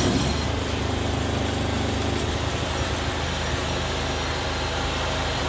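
Makinex 16 kVA petrol generator's engine running steadily on choke just after a test start, an even mechanical drone.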